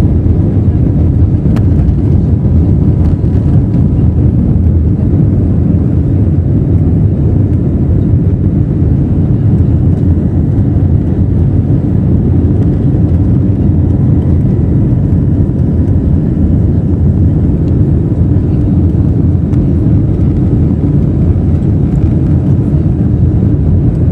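Steady, loud, deep roar of an Airbus A321neo's CFM LEAP-1A engines at high thrust during departure, heard from inside the passenger cabin.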